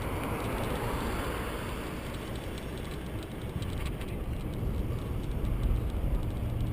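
Riding noise from a bicycle-mounted GoPro: wind rushing over the microphone and tyres rumbling along the path, with a few light clicks from the bike.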